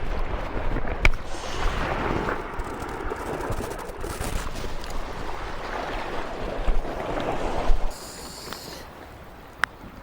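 Wind buffeting the microphone over surf on a rocky shore, a rough noise that drops away sharply about eight seconds in.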